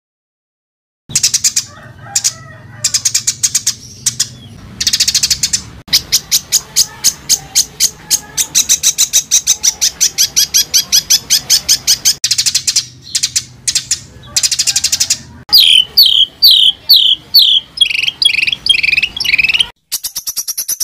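Songbird song, the dense, harsh rapid-fire phrases ('tembakan') used to tutor contest birds: bursts of fast-repeated high notes in rattling trills, then near the end a run of about eight sharp, falling whistled notes. It starts after about a second of silence.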